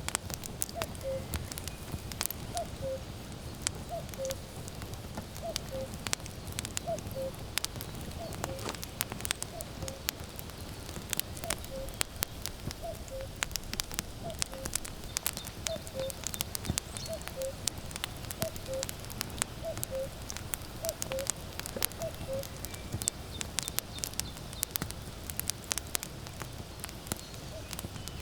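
Firewood burning with frequent sharp crackles and pops. Over it a common cuckoo repeats its two-note falling "cuck-oo" about once every second and a half, stopping about 22 seconds in.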